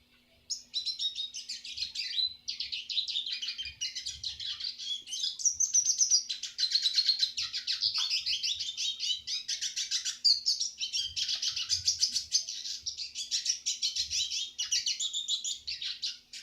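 Red siskin singing a long, fast twittering song of rapid chirps and trills, which starts about half a second in and continues with barely a pause.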